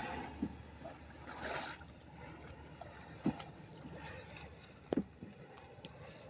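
Sea water splashing and lapping around a small fishing boat, with a few sharp knocks against the hull or gear.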